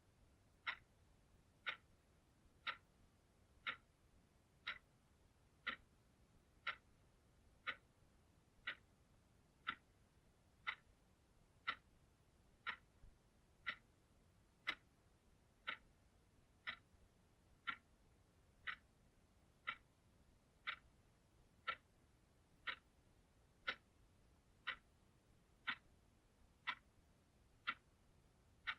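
Clock ticking steadily, one short sharp tick each second, with near silence between the ticks.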